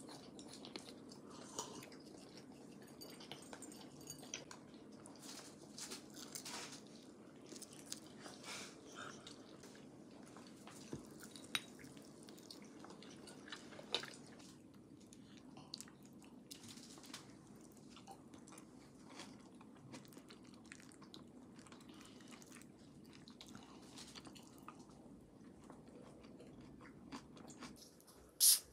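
Close eating sounds: quiet chewing and biting of a grilled chicken wing, with scattered small clicks, over a faint steady hum. A single sharp loud click comes near the end.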